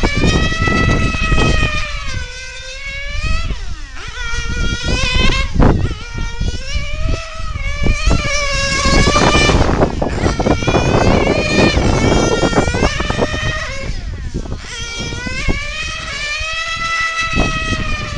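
Nitro engine of a 1/8-scale on-road RC car (a Novarossi 9-port) screaming at high revs as the car laps the track. The pitch climbs on the straights, drops into the corners and rises again, several times over.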